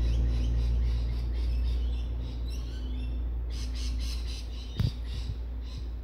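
Small birds chirping repeatedly over a low hum that gradually fades, with a single thump about five seconds in.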